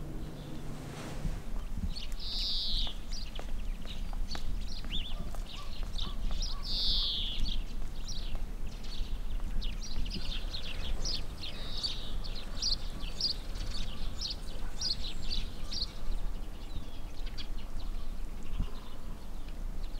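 Small songbirds calling: a run of short, high chirps, with two longer downward-sliding notes about two and a half and seven seconds in, over a steady low rumble. The chirps die away a few seconds before the end.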